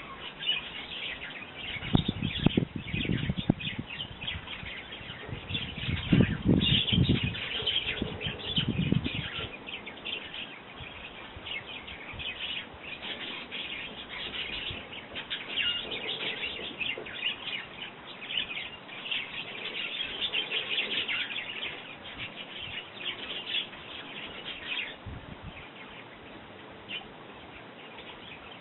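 Sparrows chirping and chattering busily at a bird feeder, many short chirps overlapping throughout. A low rumble comes in twice during the first nine seconds and is the loudest part.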